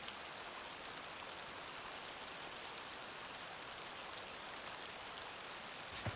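Snowstorm ambience in the forest: a steady, even hiss of wind and falling snow with no distinct events, and a soft low knock at the very end.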